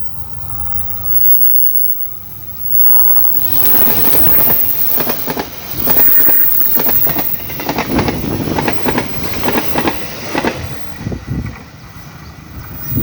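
A passing train with its wheels clacking over the rail joints: a rumble that builds about three seconds in, then a run of sharp clacks, easing off near the end.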